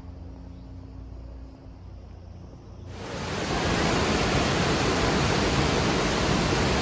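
A faint low rumble, then about three seconds in the steady rushing noise of a waterfall comes in suddenly and stays loud.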